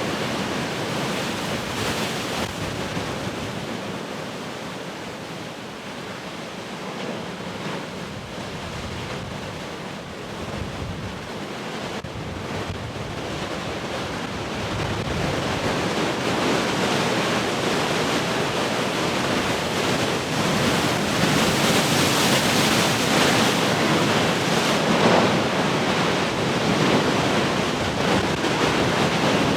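Heavy ocean surf: waves breaking and washing in as a continuous rush of noise. It eases a few seconds in, then builds again to its loudest about two-thirds of the way through.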